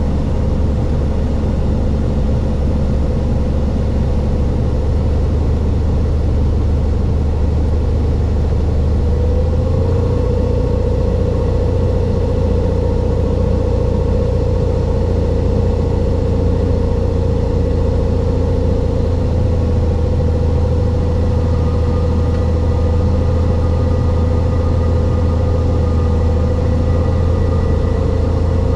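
Cessna 182's piston engine and propeller droning steadily during a landing approach. The pitch steps slightly up and down a few times, with a deep hum underneath.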